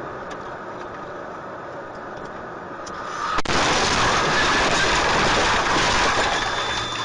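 Steady rushing road and engine noise of a moving vehicle, jumping abruptly to a much louder, hissier rush about three and a half seconds in.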